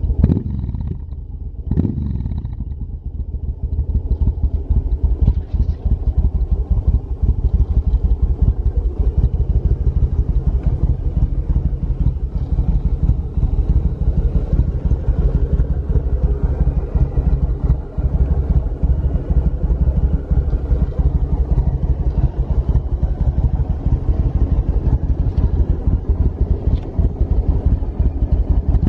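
Yamaha BT1100 Bulldog's air-cooled V-twin idling through a pair of Laser Duo-Tech titanium silencers. Two brief throttle blips come in the first two seconds, then it settles into a steady idle.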